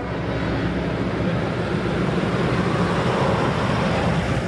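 Heavy truck driving past, a steady engine rumble and road noise.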